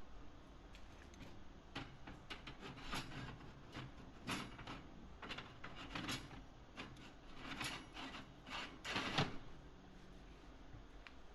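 Irregular clicks, knocks and light clatter of oven parts being handled and fitted back into place, thickest in the middle of the stretch.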